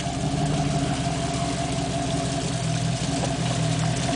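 Jeep ZJ's engine running steadily at low revs while it crawls over rock.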